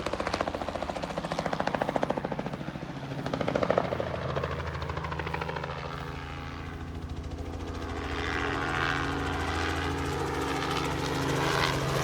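Crop-spraying helicopter flying over, its rotor beating with a fast, even thumping that eases about halfway through into a steadier engine-and-rotor drone.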